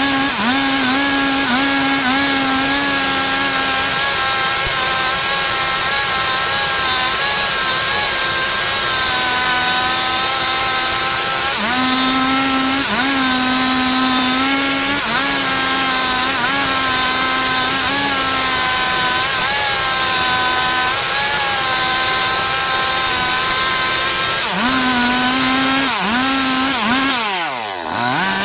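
Stihl MS 382 two-stroke chainsaw running at full throttle while cutting wood, its pitch sagging briefly under load a few times. Near the end it drops off throttle and revs straight back up.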